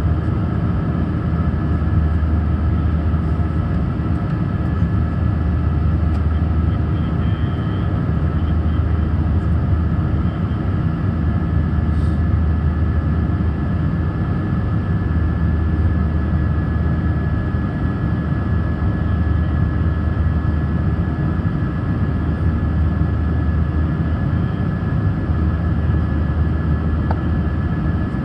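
Airbus A319 jet engines running steadily, heard inside the passenger cabin as a constant low rumble with a few steady whining tones over it.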